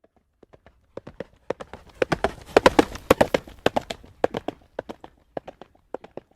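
Horse's hooves trotting on a hard road, an uneven run of sharp clip-clop knocks. They come louder and thicker for a couple of seconds in the middle, with a low rumble beneath.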